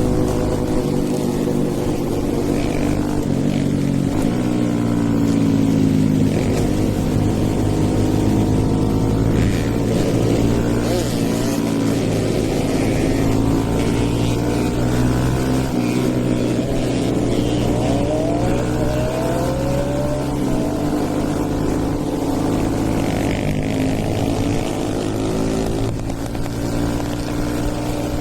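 Stage-2-tuned Hero Eco 150 single-cylinder four-stroke motorcycle engine under way, its revs rising and falling as it accelerates, eases off and shifts through the gears.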